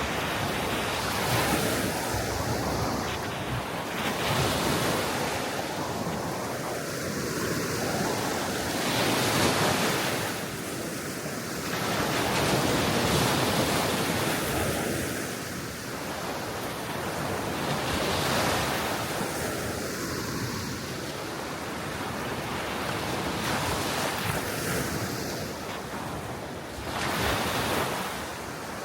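Gentle waves breaking and washing on the shore of a calm sea, the surf swelling and easing every few seconds, with wind rumbling on the microphone.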